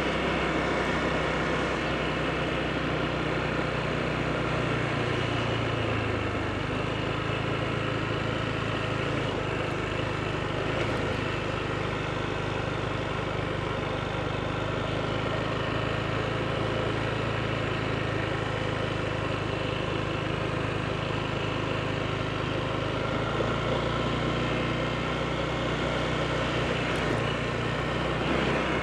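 Honda PCX scooter's single-cylinder engine running steadily while riding, with wind and road noise; the engine note shifts about six seconds in.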